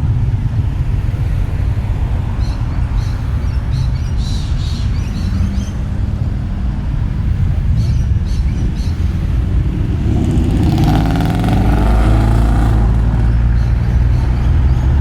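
A car engine running, a steady low rumble, with its pitch rising for a few seconds about ten seconds in as it revs or pulls away.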